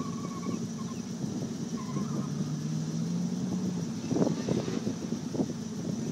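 Corvette engine running through an autocross course of cones some distance away, holding a steady note for a couple of seconds in the middle.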